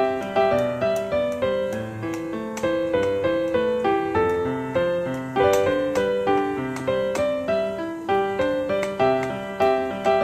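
Background piano music: a steady run of struck notes, several a second, with no singing.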